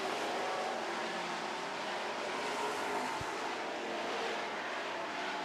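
Pack of dirt-track super trucks racing around the oval, their engines running hard in a steady mix of overlapping engine notes.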